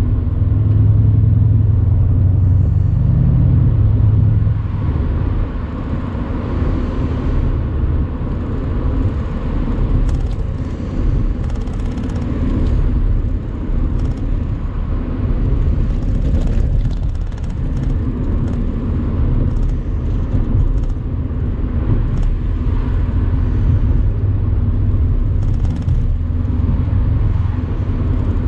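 Mercedes-AMG C63's 4.0-litre twin-turbo V8 under load, louder for the first four seconds or so, then easing back to a steady cruising drone for the rest.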